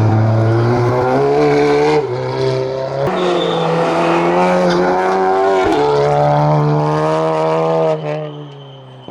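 Race car engine at full throttle on a hillclimb, pulling hard through several gear changes with short breaks in the engine note, then fading quickly as the car drives away near the end.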